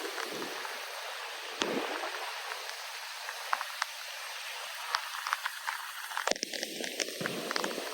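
Monsoon rain falling steadily, with individual drops ticking close by in a scattered, irregular stream.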